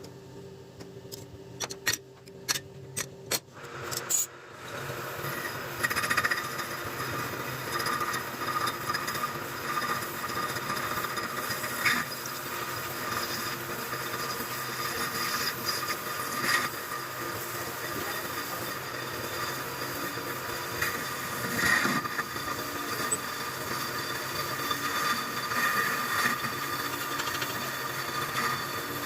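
A quick series of sharp metal knocks in the first few seconds, then a metal lathe running steadily with a high whine and occasional louder scraping.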